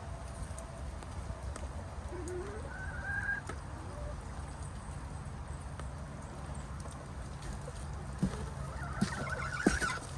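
Backyard laying hens clucking quietly, with short rising calls twice, over a steady low background noise; a few sharp taps near the end.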